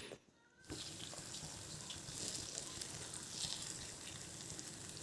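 Paniyaram batter frying in oil in the cavities of a nonstick kuzhi paniyaram pan: a faint, steady sizzle with fine crackles that starts just under a second in.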